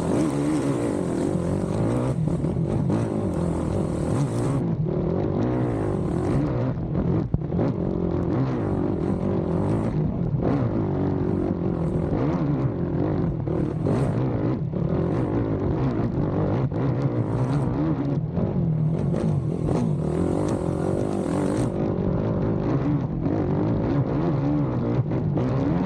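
Race ATV engine heard from onboard the quad, running hard throughout and revving up and down with the throttle, with a few brief drops in the note.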